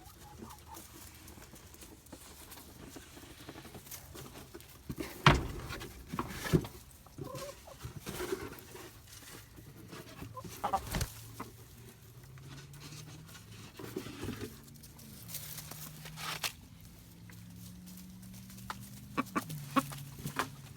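Chickens clucking softly as they feed on live crickets, with a few sharp knocks, the loudest about five seconds in.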